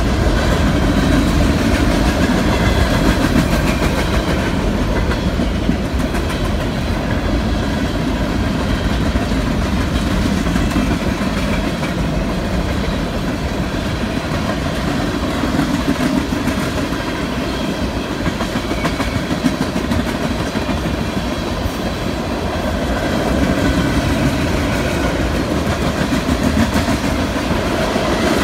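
Freight train cars, boxcars and tank cars, rolling steadily past: a continuous rumble and clatter of steel wheels on the rails, easing a little in the middle.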